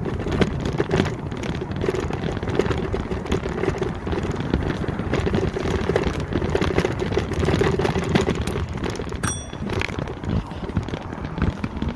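Wind rushing over the microphone and street traffic noise while riding an electric motorbike, with a low steady hum that comes and goes and one brief high beep about nine seconds in.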